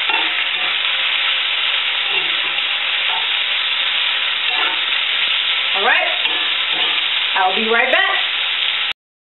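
Sliced onions and radishes sizzling in oil in a cast-iron pan as they are stirred, a steady sizzle. A few short rising squeaks come near the end, and the sound cuts off abruptly just before the end.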